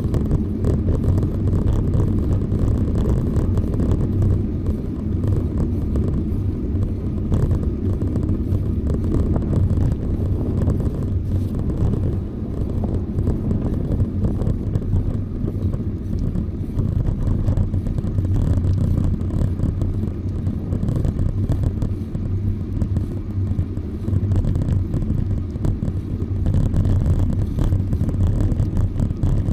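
Wind buffeting the microphone on a moving bicycle: a steady, fluttering low rumble.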